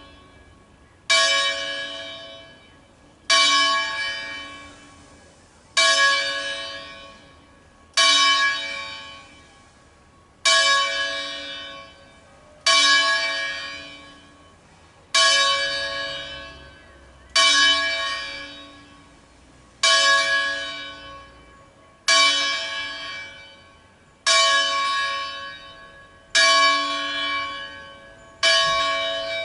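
A single church bell, the C#4 bell of a nine-bell Angelo Ottolina peal from 1953, tolled alone with one stroke about every two seconds. Each stroke rings out and fades before the next. This is the call on the C#4 bell that summons people to mass.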